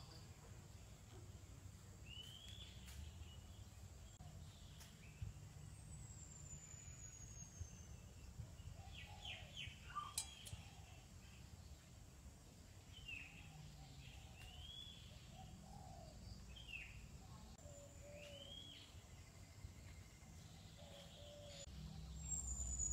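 Faint outdoor ambience with birds calling: short rising-and-falling chirps every second or two, and a thin high falling whistle twice, over a low background rumble.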